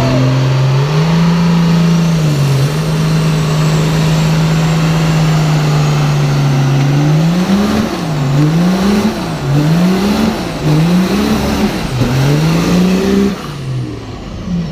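Pickup truck engine held at high revs in a burnout for several seconds, then revved up and down about five times, roughly once a second, before it drops off near the end.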